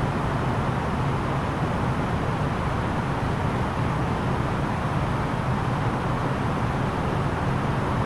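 Steady in-flight cabin noise of an Airbus A330-900neo in descent: airflow rush and the low drone of its Rolls-Royce Trent 7000 engines, unchanging throughout.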